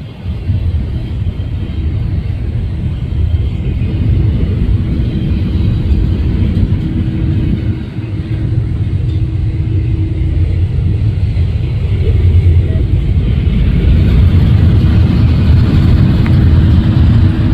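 Steady low rumble of a moving car, with a faint hum that comes and goes.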